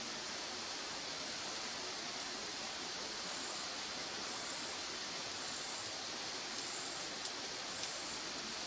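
Firewood burning: a steady hiss with occasional sharp crackles, one louder pop about seven seconds in.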